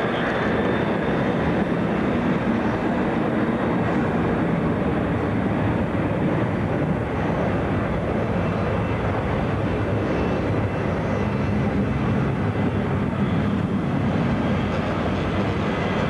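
Jet airliner engines running: a steady, dense rushing noise with a faint high whine held throughout.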